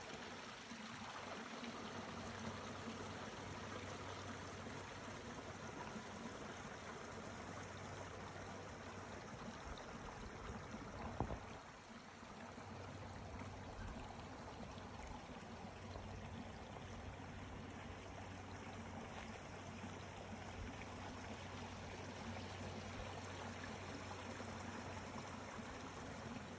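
Mountain stream flowing steadily, an even rush of running water. A single sharp knock comes about eleven seconds in.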